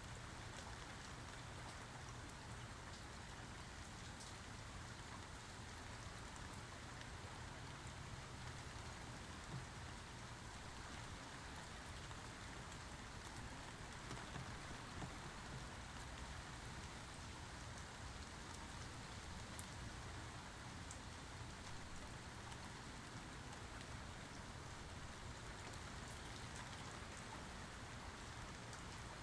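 Steady rain falling, an even hiss with scattered single drops ticking on a surface.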